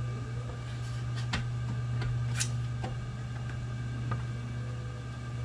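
A few light clicks and taps from handling a desktop computer case's drive tray and screws, over a steady low hum.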